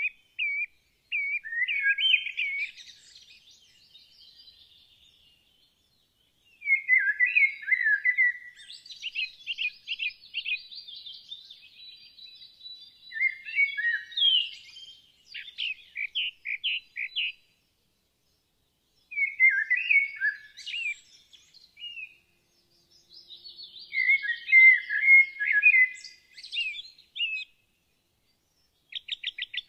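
Small songbird chirping and trilling in phrases of a few seconds each, with short silent pauses between phrases.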